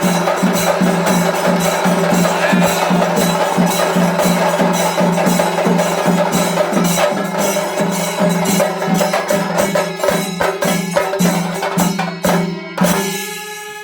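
Chendamelam: Kerala chenda drums beaten in fast, even strokes over a sustained ringing tone. The rhythm breaks up near the end and closes on a final loud stroke, leaving a ring that fades.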